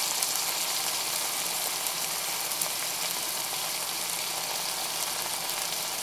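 Sliced carrots and green chillies frying in a wok, giving a steady, even sizzle.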